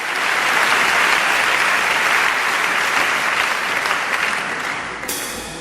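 Audience applauding and cheering. Near the end the music begins with a struck, ringing note that dies away.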